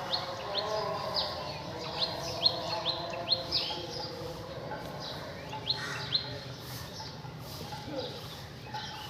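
Small birds chirping: a quick run of short, sharp upward chirps, busiest in the first few seconds and again about six seconds in.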